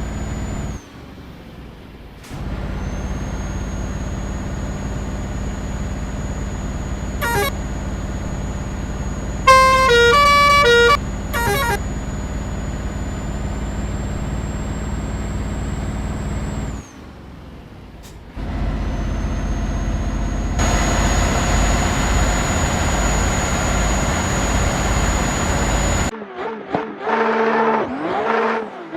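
Vehicle engine sound effect running steadily with a thin high whine, cutting out briefly twice. A horn toots once, then sounds louder in several short blasts. Warbling pitched sounds come near the end.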